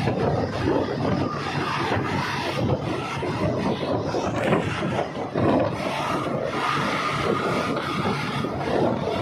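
Passenger train carriage running along the track: a steady rumble with irregular rattling and clatter throughout.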